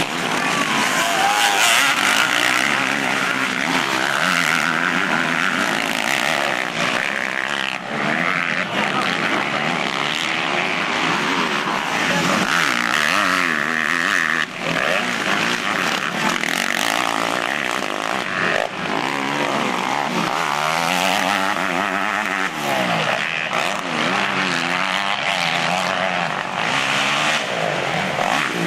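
Several motocross bikes' engines revving hard and easing off, the pitch rising and falling over and over.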